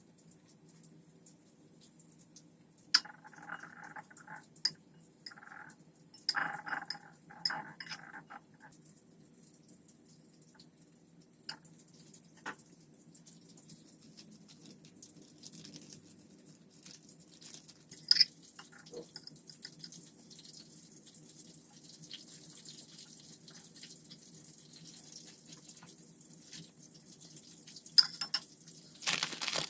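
Kitchen handling sounds: scattered clinks and knocks of dishes and utensils over a steady low hum. Near the end a tap is turned on and water runs.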